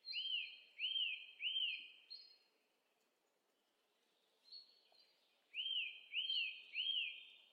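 Bird chirps: three quick arched notes, rising then falling, repeated as a second group of three about five and a half seconds in, with fainter higher notes between.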